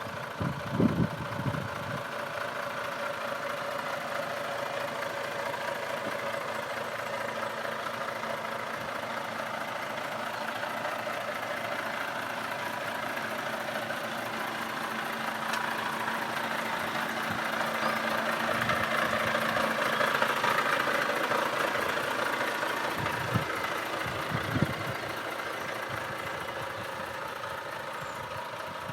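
Volvo FH13 tractor unit's 13-litre straight-six diesel idling steadily, with a few short low thumps about a second in and again near the end.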